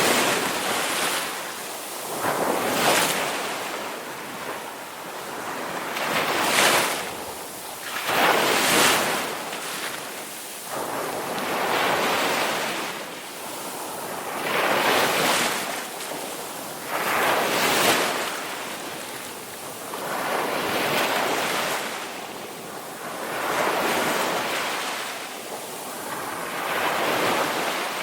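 Ocean waves breaking and washing in, a rushing surge that swells and fades about every two to three seconds.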